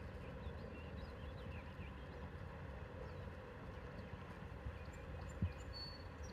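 Outdoor ambience: a steady low wind rumble on the microphone, with a few faint high chirps and a single short knock about five seconds in.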